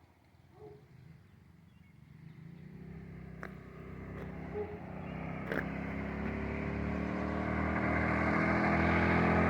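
Homemade trike's engine approaching, starting faint and growing steadily louder as it draws near. Two sharp clicks are heard partway through.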